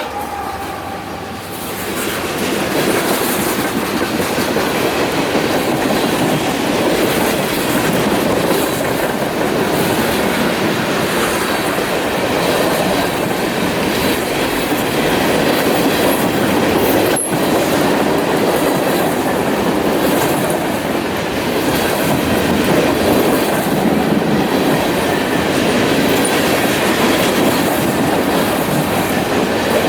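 A train rolling past, a steady rumble of wheels with clickety-clack over the rail joints, and one sharp knock about 17 seconds in.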